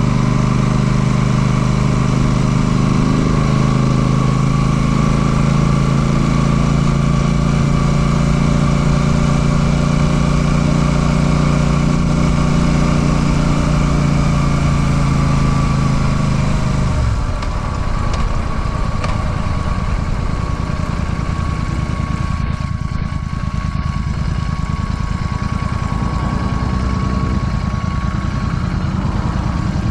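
Royal Enfield Classic 650's parallel-twin engine running at a steady speed. About halfway through, the throttle is closed and the engine note drops suddenly to a low, rough idle.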